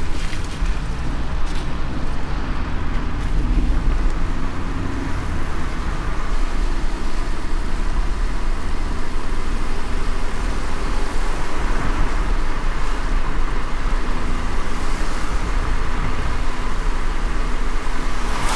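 Car driving in light rain: a steady low road-and-engine rumble with an even hiss of rain and wet road above it. A short sharp tap near the end.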